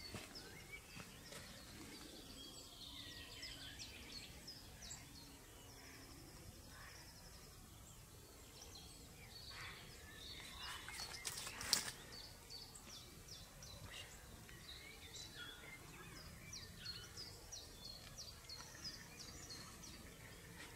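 Small birds chirping and singing over quiet open-air ambience, short high calls coming every second or so, with a brief trill. A single sharp click about twelve seconds in.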